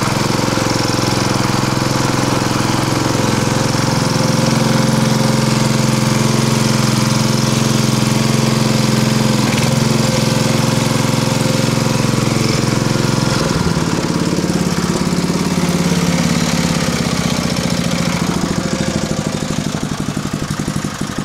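Small engine of a converted riding lawnmower running steadily as the mini tractor drives in reverse. About two-thirds of the way through, the engine note drops to a lower pitch.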